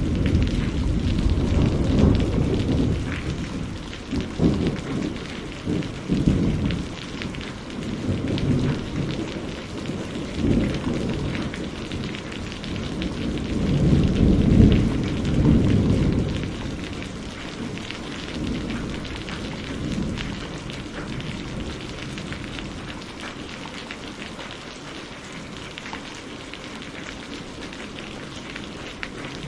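Steady rainfall with rolling thunder: deep rumbles swell in the first few seconds and again about halfway through, then die away under the rain.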